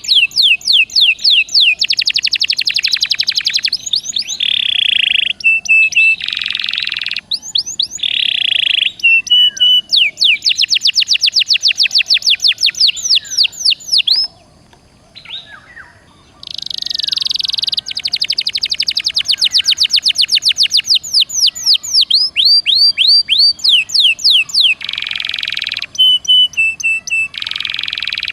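Domestic canary singing a long, fast song: rapid runs of falling whistled notes alternating with buzzy rolls, with a short pause about halfway through.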